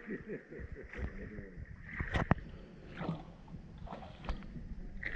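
Rowboat being rowed through the water, with a few sharp knocks from the oars, about two seconds in and again later, ringing in the cave.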